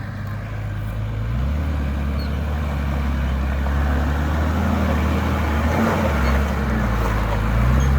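Four-wheel drive's engine running at low speed under load while crawling over rocks, its low note getting louder about a second and a half in.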